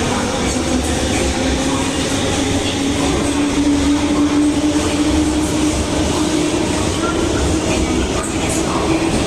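JR 201 series electric train pulling away under chopper control, its traction equipment giving a steady whine that rises slowly in pitch as the train gathers speed, over the rumble of the running train.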